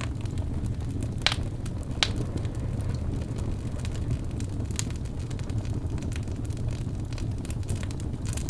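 Wood fire burning in a fireplace: a steady low rumble of flames with a few sharp crackles and pops, a cluster of them near the end.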